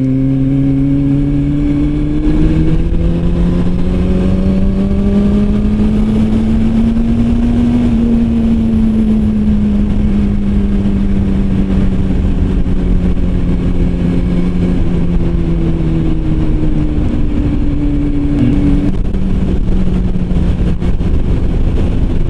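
Motorcycle engine running under load at road speed, its pitch rising over the first eight seconds or so and then easing down slowly, over a steady rush of wind.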